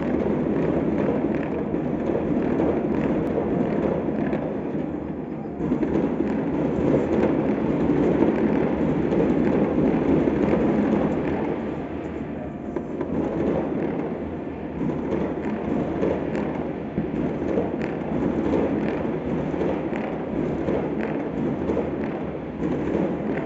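Many distant firecrackers and fireworks going off at once across a city, their pops blending into a continuous crackle.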